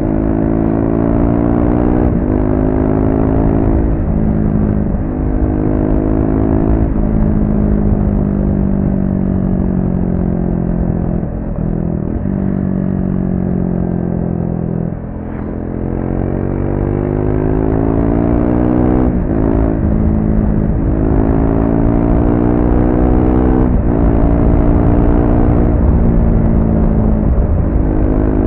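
Triumph Speed 400's single-cylinder engine on its stock exhaust, under way. It pulls up through the gears, each climb in revs cut by a quick drop at the shift, then the revs fall away slowly under engine braking into a corner before it accelerates again through several more upshifts.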